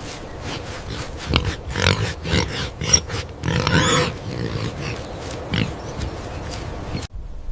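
Pig grunting in a series of short calls, several close together from about a second and a half in, with one more near six seconds.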